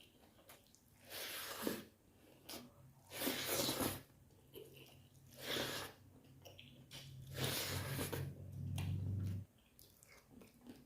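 Close-up chewing of fried chicken gizzards, with louder noisy bursts about every two seconds. A low hum underneath stops suddenly about a second before the end.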